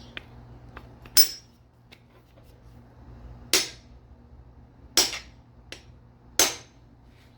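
A smooth-faced hammer striking an Allen bit four times, about a second and a half apart, with sharp metallic strikes. It is driving the bit fully into the 6 mm Allen-head fuel rail bolts of a Nissan VG33E so the heads don't strip when the bolts are turned.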